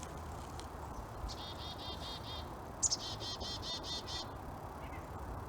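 A small songbird calling in the woods: two rapid trills of high, evenly repeated notes, each lasting about a second, the second preceded by a sharp, very high note.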